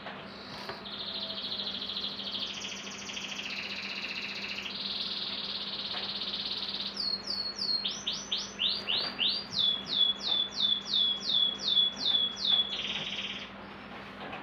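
A songbird singing. First come several seconds of long, high trills, then a long run of loud, quick downward-sweeping whistles at about two a second, and a short buzzy trill to close.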